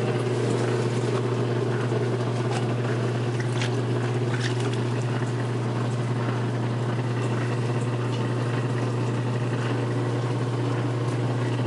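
A 56-year-old Maytag wringer washer running with its wringer turned on: a steady motor hum, with water splashing and trickling as the tub drains.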